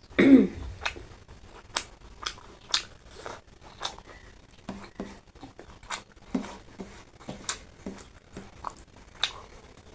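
Close-miked eating sounds: chewing and mouth smacks with many short, sharp clicks. A brief falling-pitched sound right at the start is the loudest event.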